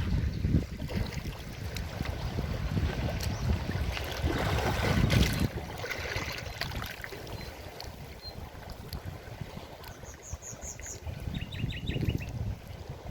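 Forest river water rushing in a steady wash, surging louder about four to five seconds in. Near the end come two quick runs of short, high chirps.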